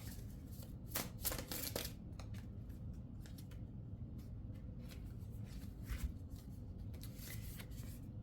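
A deck of tarot cards being shuffled and handled, a quick run of papery flicks about a second in, then scattered softer flicks.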